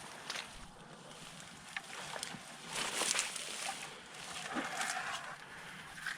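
Water sloshing and splashing in irregular bursts, strongest about three seconds in and again around five seconds.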